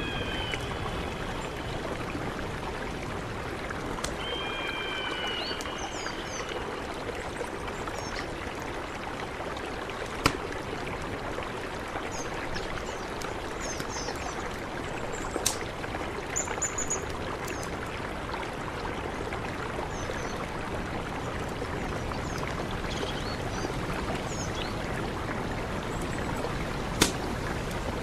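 Mountain river rushing steadily, with short high bird chirps now and then. There are three sharp clicks: one about a third of the way in, one near the middle and one near the end.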